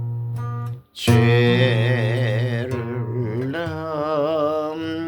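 Singing with acoustic guitar accompaniment: a Korean folk-style ballad. A sustained guitar chord cuts off for a moment about a second in, then the voice enters on the lyric "재를" and holds long notes with a wide vibrato over the guitar.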